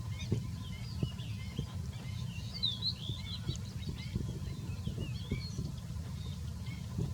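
Small birds chirping: many short, quick chirps throughout, over a steady low rumble.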